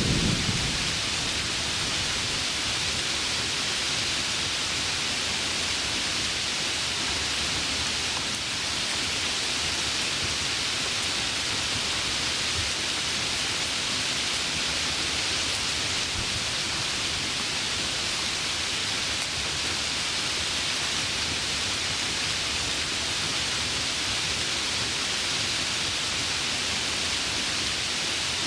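Heavy rain falling steadily in an even hiss. The low rumble of a thunderclap dies away in the first second.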